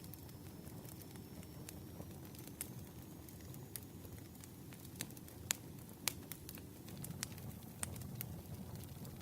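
Campfire burning: a low steady rumble with irregular sharp crackles and pops, the loudest two about five and a half and six seconds in.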